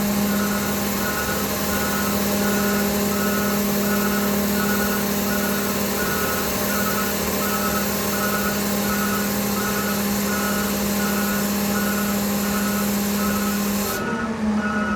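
Garbage truck raising its tailgate: a steady hum of the engine-driven hydraulics running at raised speed, and a warning alarm beeping about one and a half times a second. The hum shifts near the end.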